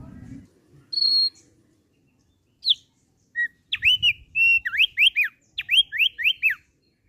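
Thick-billed heleia (opior paruh tebal) singing sweet clear whistles: a short held high note about a second in, a single falling note, then a quick run of about eight whistled notes, each sliding up and then down.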